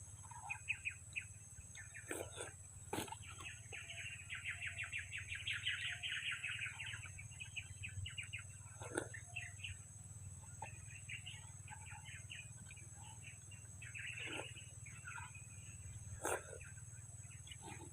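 Small birds chirping in quick repeated notes, with a dense trill in the first half, and a few short sharp knocks in between.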